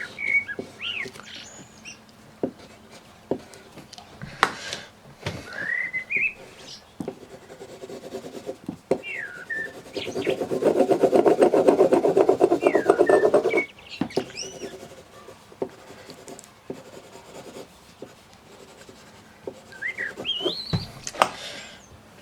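Rapid scribbling of a drawing tool on paper for about three and a half seconds near the middle, the loudest sound, with a few lighter strokes and taps around it. Small birds chirp now and then throughout.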